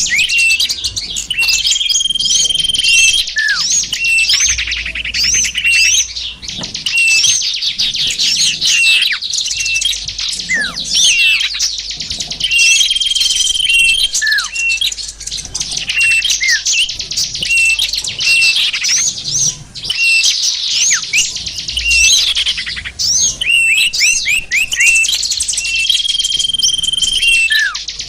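Dense chorus of many small songbirds chirping, trilling and calling over one another without a break, with a short held high whistle recurring a few times: a bird-lure recording (suara pikat) mixing small wild-bird calls to draw small birds in.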